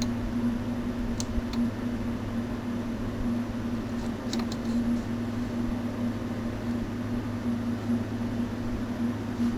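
Steady electrical hum with a low drone beneath it over a constant background noise, with a few faint ticks.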